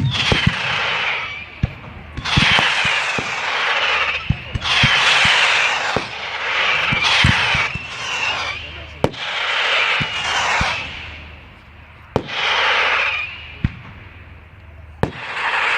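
Fireworks display: a series of sharp bangs from bursting shells, alternating with loud bursts of hissing noise about a second or two long each.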